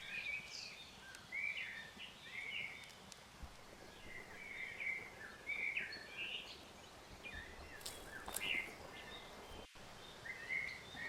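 Small birds chirping, short calls repeating every second or so, over a faint steady background hiss, with a couple of light clicks a little past the middle.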